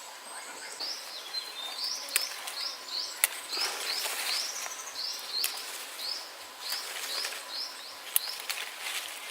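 Birds chirping: a steady run of short, high chirps, about two a second. A few sharp clicks come in between.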